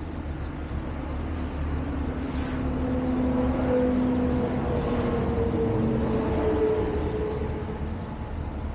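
A motor vehicle engine running with a low rumble and a steady hum, growing louder toward the middle and easing off near the end.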